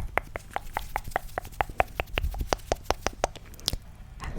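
ASMR mouth sounds: a quick run of short wet clicks close to the microphone, about five a second, stopping shortly before whispering begins.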